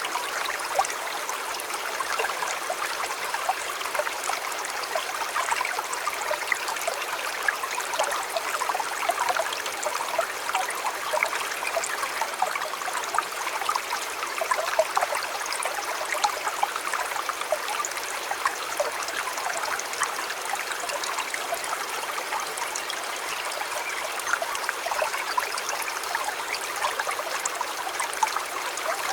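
River water flowing and burbling steadily over stones, a constant rushing with many small splashes and trickles.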